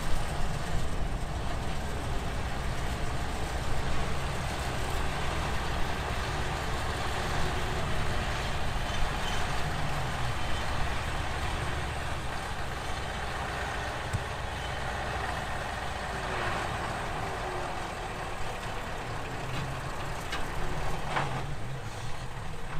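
Heavy diesel earthmoving machinery running steadily with a deep engine rumble, and a few faint knocks near the end.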